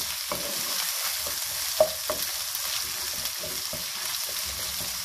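Onions and ginger-garlic paste frying in ghee in a nonstick kadhai, sizzling steadily while a wooden spatula stirs and scrapes the pan with small clicks. There is one sharp tap of the spatula on the pan about two seconds in.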